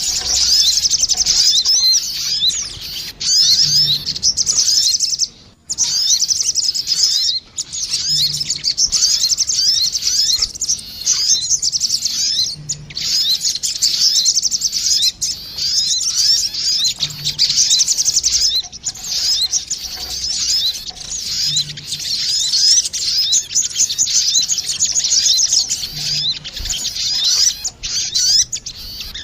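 Sogon (crimson sunbirds), male and female, calling back and forth in rapid, high, thin chirps and trills, used as a lure call for trapping. The calls pause briefly twice, about five and a half and seven and a half seconds in.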